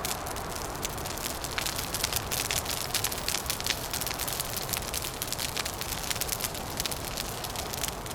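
Wood fire crackling, with dense irregular pops and snaps over a steady low rushing background.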